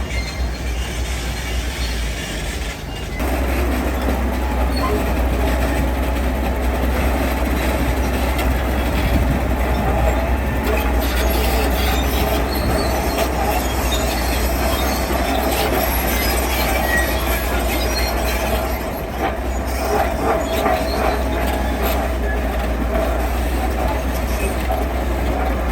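Heavy construction machinery working: a steady low diesel rumble with metallic clatter, louder from about three seconds in.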